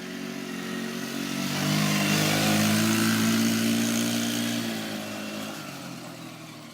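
An ATV (four-wheeler) engine approaches and rides past under throttle. It is loudest about two to four seconds in, then fades as it moves away.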